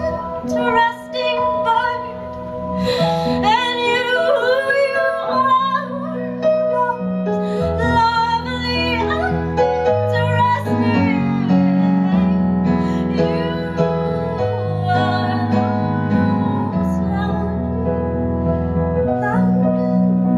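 Female vocalist singing a slow song to keyboard accompaniment, the voice wavering with vibrato over sustained low chords.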